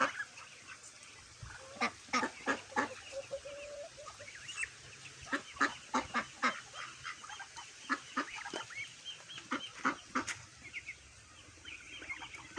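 A flock of backyard poultry calling, with many short, sharp honking and clucking calls coming in quick, irregular clusters.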